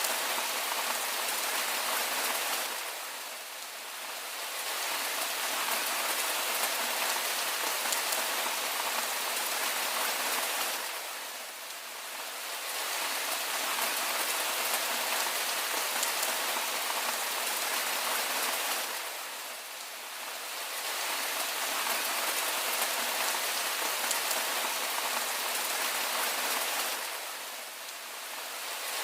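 Steady rain falling on a surface, a dense even hiss whose level dips briefly and swells back about every eight seconds.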